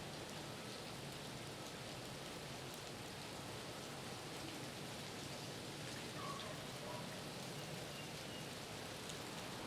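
Steady, faint patter of heavy precipitation: large wet snowflakes falling and landing all around.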